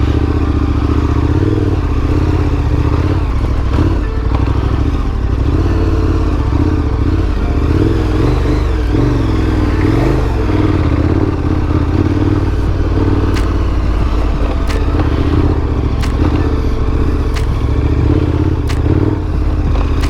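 Big adventure motorcycle's engine running continuously under varying throttle while being ridden on a dirt trail, with some clatter and a few sharp ticks in the second half.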